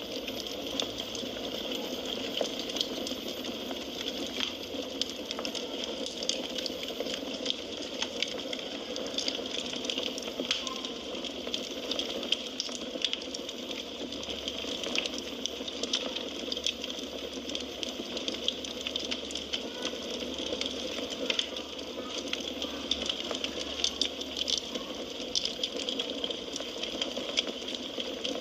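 Wood fire burning in a fireplace: a steady hiss with frequent small, sharp crackles and pops from the burning logs.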